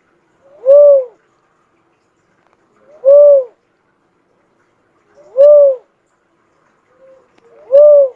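Cuckoo-dove (burung uncal) calling: four loud cooing notes, each arching up and down in pitch, spaced a little over two seconds apart.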